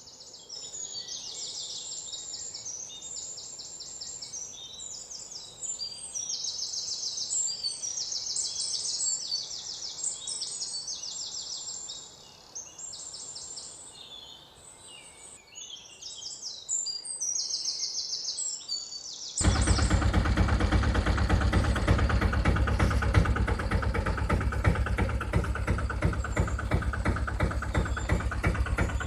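Birds chirping in repeated quick trills. About two-thirds of the way through, a much louder steady, rhythmic, low-pitched sound cuts in suddenly and drowns them out.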